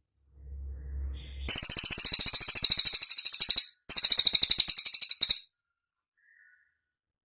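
Cililin bird song: two loud, very high trills of rapidly repeated notes, about ten a second, each lasting about two seconds, the first starting about a second and a half in. A faint low rumble comes just before the first trill.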